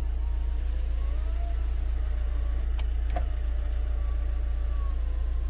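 Hyundai Tucson making a steady low rumble with a faint wavering whine above it, and two light clicks about three seconds in.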